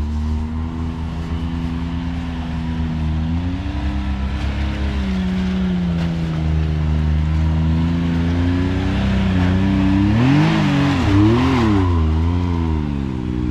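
Can-Am X3 side-by-side's engine running at low speed, its pitch rising and falling gently as the throttle is worked while crawling over rock. About ten seconds in, it gives several quick blips of revs.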